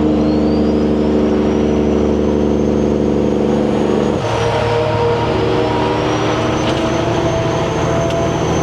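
Semi truck's diesel engine pulling hard through 8-inch straight stacks, with a high turbo whistle climbing over it. About four seconds in, the engine note drops away briefly and the whistle dips, then both come back and the whistle rises again.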